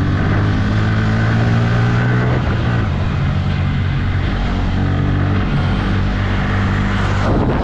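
Motorcycle engine running at fairly steady revs while riding, with a rushing noise underneath; the engine note shifts a couple of times, about two and a half seconds in and near the end.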